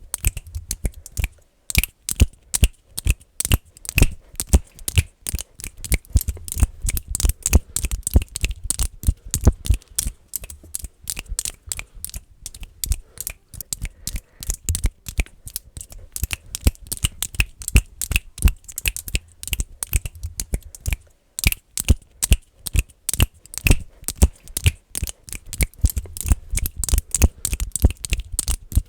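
Fast, aggressive finger clicking close to the microphone: a dense, irregular stream of sharp clicks, several a second, with brief pauses about a second and a half in and again about 21 seconds in.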